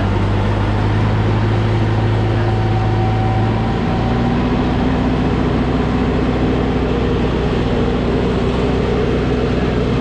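Tractor engine running steadily while driving a snowblower through snow; about four seconds in its note shifts to a different pitch and then holds steady again.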